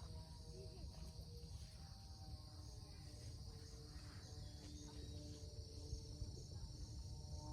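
Crickets chirping in a steady, high-pitched continuous trill, over a faint low rumble.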